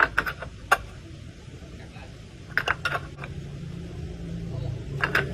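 Sharp metallic clinks and knocks in small clusters, a few near the start, more about two and a half to three seconds in, and again near the end, over a low steady hum.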